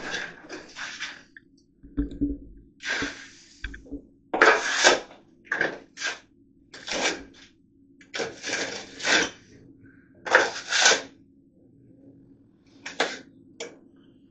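Plastering trowel scraping and spreading wet plaster onto wooden lath in a series of short rough strokes at irregular intervals, with a longer pause near the end.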